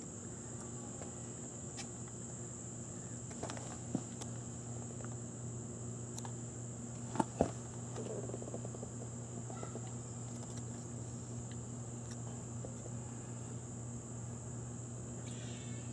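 Crickets chirping in a steady high chorus over a low, steady hum, with a few soft clicks or knocks.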